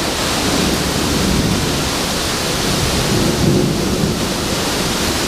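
Heavy rain and strong wind of a severe thunderstorm: a steady rushing hiss with low rumbling wind gusts buffeting the microphone.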